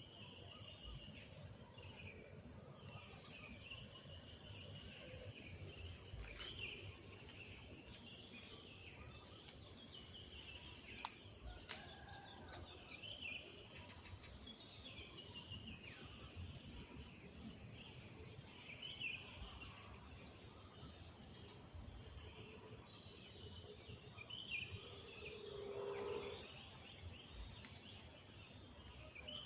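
Rural morning ambience: small birds chirping and twittering on and off over a steady high insect drone, with a quick run of high bird notes about two-thirds of the way through and a brief lower call near the end.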